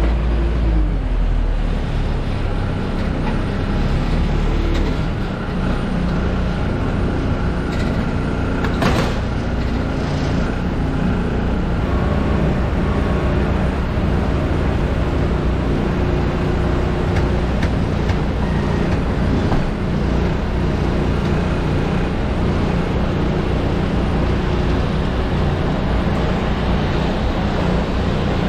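Steady engine rumble of airport ground-handling vehicles and machinery working around an Airbus A320 during unloading. A single sharp knock comes about nine seconds in.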